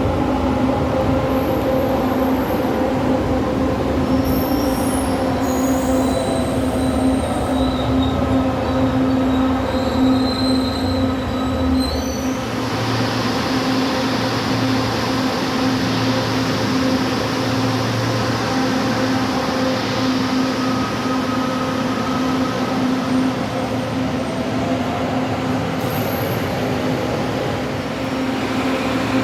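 LRT Line 2 electric train running, with a steady motor hum and high, thin wheel squeals over the first twelve seconds or so. A whine glides in pitch twice. The sound changes abruptly about twelve seconds in, with less rumble and more hiss.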